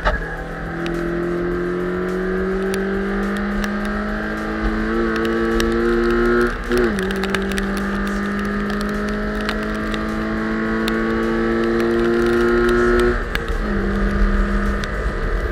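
Toyota 86 / Scion FR-S flat-four engine pulling under hard track acceleration, its pitch climbing steadily. About seven seconds in it upshifts with a quick dip in pitch, then climbs again until the pitch drops once more about thirteen seconds in.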